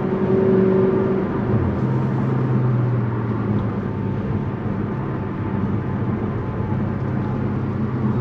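Tuned Audi S6 driving along, its engine running at a steady note over tyre and road noise. The engine note shifts to a new steady pitch about a second and a half in.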